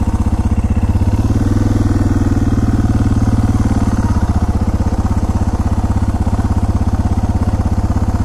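Suzuki DR650SE's single-cylinder engine running with a steady, evenly pulsing exhaust note. The note is a little fuller from about a second in until about four seconds in.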